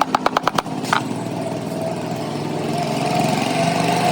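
A quick run of about seven sharp knocks, then a small motor running steadily.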